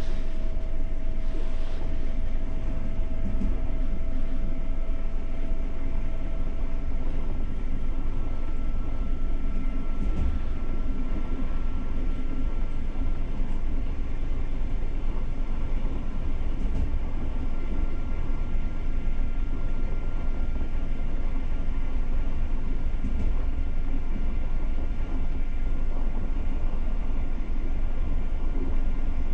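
Passenger train carriage running along the track, heard from inside: a steady low rumble of wheels on rails with a faint steady whine and a few light clicks.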